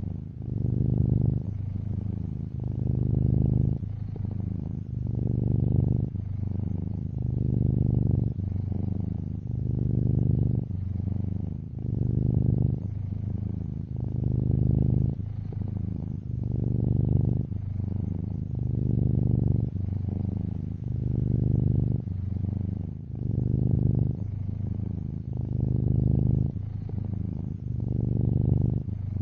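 Domestic cat purring close up, a steady low rumble that swells and eases in a regular rhythm with each in-breath and out-breath, about once every second or two.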